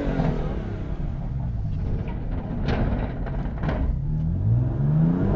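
Sports car engine rumbling low, then revving up with a steadily rising pitch over the last second and a half.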